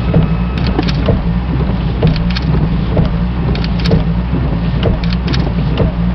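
Steady low engine and road rumble of a moving vehicle, with irregular rattles and knocks.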